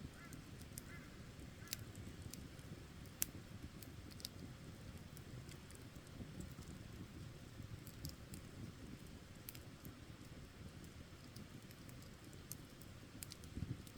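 Wood campfire burning: a low steady rush of flame with sparse sharp crackles and pops from the burning wood, the loudest pop about three seconds in.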